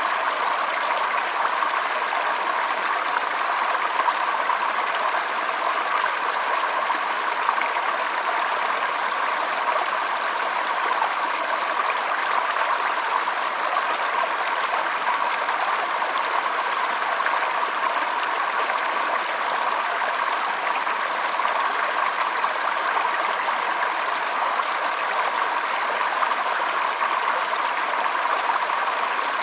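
Running water of a stream, a steady unbroken rush with the most energy in the middle pitches.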